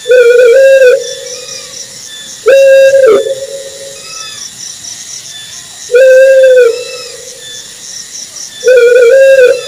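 An owl hooting four times, each hoot a clear, level, whistle-like note just under a second long. The hoots come about every two and a half to three seconds, each trailing off in an echo. Faint, fast, high-pitched chirping runs underneath.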